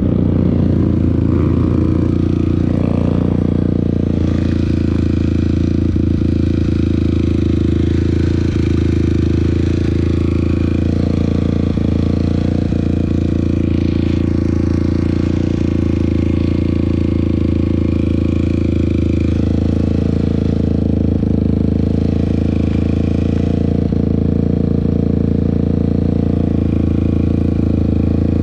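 Off-road trail vehicle engine running loud and close at a fairly steady pitch, with some rattle and clatter over it.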